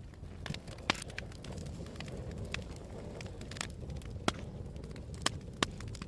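Fire burning in a fireplace, crackling, with a handful of sharp pops scattered through over a steady low rumble.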